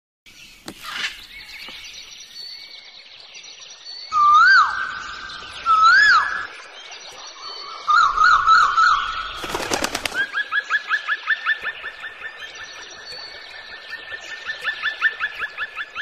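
Pet birds calling: a few whistled calls that rise and fall, then short trills, then a long run of quick repeated chirps, about five a second, through the second half. A brief loud noise comes near the middle.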